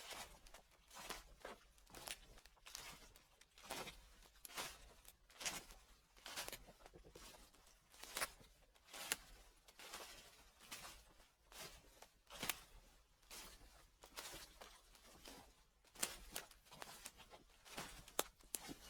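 Footsteps on fallen leaves at a slow walk, about one step a second. Each step is a short crackle of leaves.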